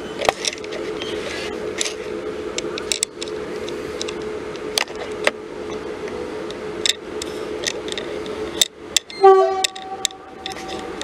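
Melbourne Metro electric suburban train slowing to a stop at a platform, with a steady electrical hum and scattered sharp clicks and knocks from the train. About nine seconds in there is a short, loud pitched blast, after which a steadier tone continues.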